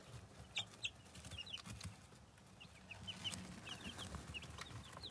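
Two-day-old meat-bird (broiler) chicks peeping: many short, high, faint peeps, several a second, with a few light ticks among them.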